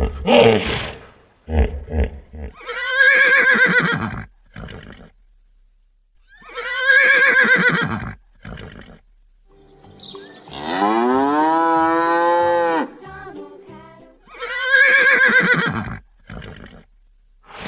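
A horse whinnying three times, each call about a second and a half long and several seconds apart. Between the second and third comes a longer call that rises in pitch and then holds.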